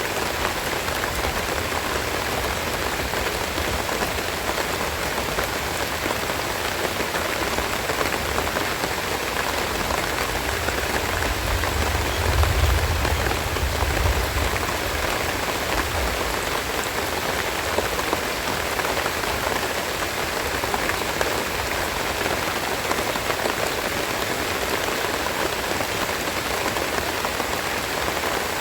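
Steady rain falling and pattering, with a low rumble swelling briefly about halfway through.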